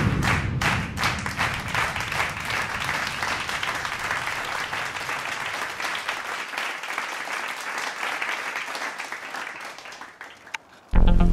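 Applause, a dense patter of many hands clapping that slowly dies away; loud music starts abruptly just before the end.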